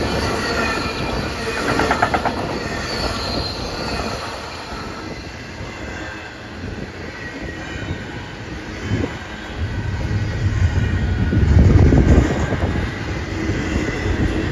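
A train rolling past, its wheels squealing on the rails with several high thin tones over the rumble during the first few seconds. The low rumble of the wheels grows loudest about three-quarters of the way through.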